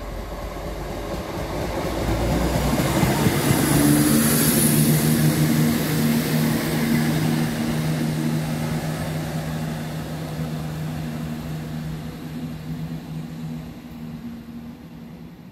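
Class 170 Turbostar diesel multiple unit passing at speed. The rush of wheels on rail and the hum of its underfloor diesel engines build to a peak about four seconds in, then fade slowly as it runs away.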